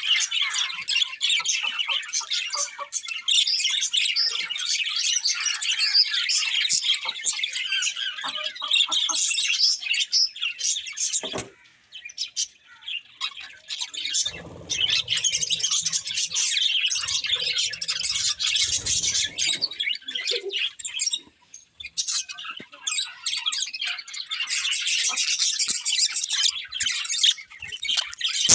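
Budgerigars chattering and chirping continuously in quick, busy warbles, with a couple of brief lulls about a third and two thirds of the way through.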